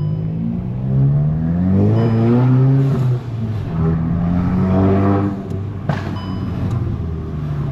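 Volkswagen Golf GTI Mk8's turbocharged 2.0-litre four-cylinder accelerating: the engine note rises, drops at a gear change about three seconds in, rises again, and settles after another shift near the middle.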